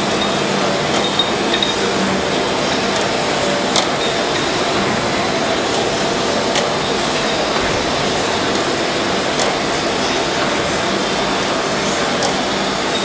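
Snow double column surface grinder running with a steady hum, with a sharp click about every three seconds.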